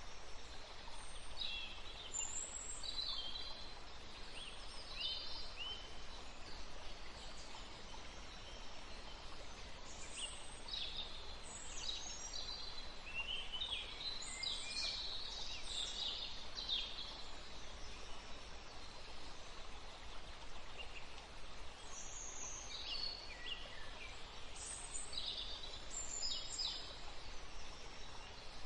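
Small songbirds chirping and twittering, many short quick calls overlapping, busiest around the middle and again near the end, over a steady outdoor background hiss.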